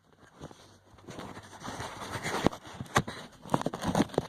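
Phone handling noise: irregular rustling, scrapes and a few sharp knocks as the phone is moved around and positioned by hand.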